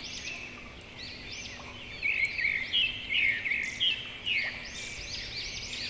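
Birds chirping: a string of short, high chirps that rise and fall in pitch, busiest in the middle.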